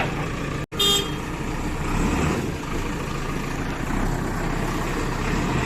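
Heavy diesel engine of a construction vehicle running steadily, with a brief dropout under a second in.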